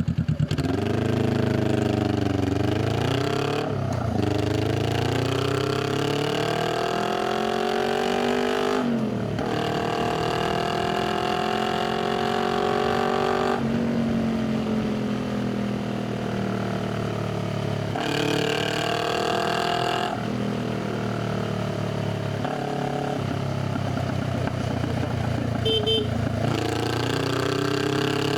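Honda Rebel 500's parallel-twin engine and exhaust accelerating through the gears. The pitch climbs several times, each climb ending in a sudden drop at a gear change. It then drops to a lower, slowly falling note as the bike eases off, climbs briefly again, and settles into a steady cruise.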